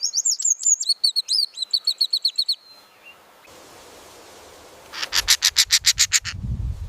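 A songbird singing a fast run of sharp, high, falling whistled notes for about two and a half seconds. After a short pause comes a fast, even rattle of about a dozen strokes, then a low rumble near the end.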